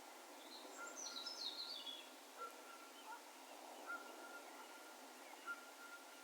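Faint, distant bird calls over a steady hiss of open-field ambience: a quick twittering run of high notes falling in pitch about half a second in, and short level whistles at one pitch repeating every second and a half or so.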